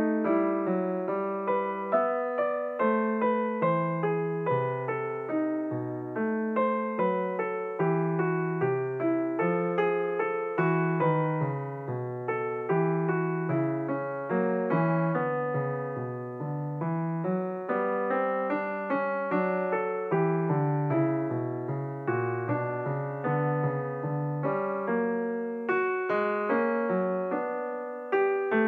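Background piano music: a steady flow of notes, each struck and then fading.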